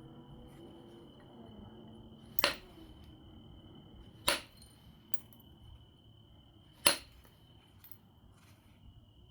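Three sharp percussion strikes on an obsidian biface, each with a bright glassy ring, spaced about two seconds apart, with a few lighter clicks and taps between them.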